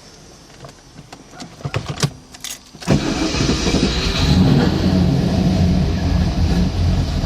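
A few clicks and a jingle like keys, then about three seconds in a car engine starts and keeps running steadily. The engine is one with a misfire/stumble.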